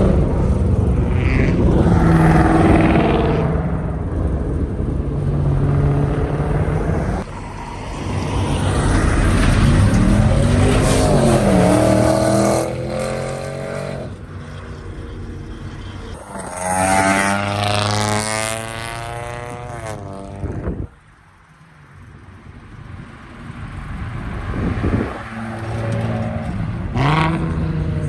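Car engines accelerating hard one after another as cars pull away, each with its pitch climbing in sweeps. The level drops off abruptly about two-thirds of the way through, then another engine builds up again.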